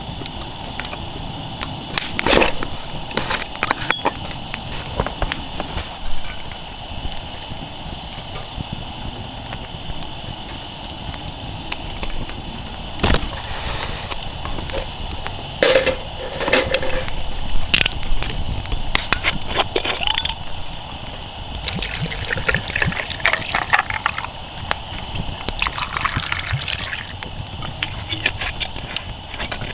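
Outdoor night ambience: a steady, high-pitched insect drone runs throughout, with scattered sharp crackles and knocks and a few short pitched sounds toward the middle and later.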